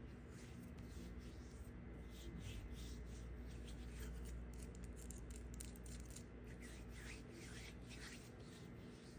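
Faint, quick, irregular crackling and scraping strokes of a knife cutting and shaving through dry soap.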